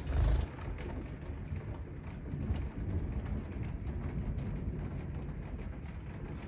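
Rain with thunder rumbling low and steady, opening with a sharp crack that is the loudest moment.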